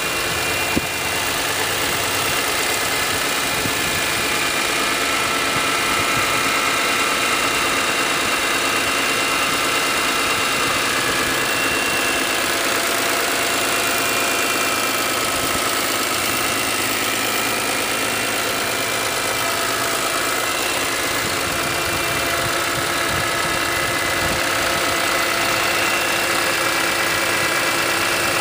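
A 2001 BMW M Coupe's S54 inline-six idling steadily, heard close up from the open engine bay. There is a single brief click about a second in.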